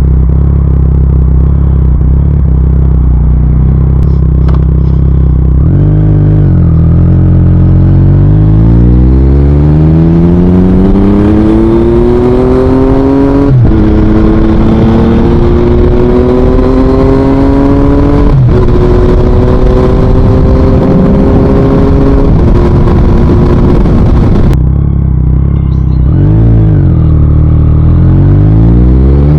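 2023 Yamaha MT-09's 890 cc inline three-cylinder engine through an Akrapovič full exhaust: idling steadily, then pulling away and accelerating through three upshifts, each a sudden drop in pitch followed by another climb. Then the throttle closes, the note dips and rises twice, and it accelerates again near the end.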